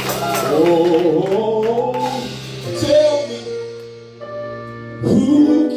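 Gospel worship music: a singer holds and bends a wordless vocal run over sustained keyboard chords, then starts a new sung note about five seconds in.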